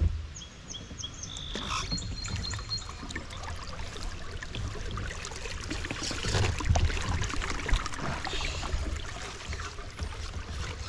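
Rain and water on a waterlogged camera microphone: a muffled low rumble with scattered crackling clicks. A run of short high chirps comes about a second in, followed by a brief steady high tone.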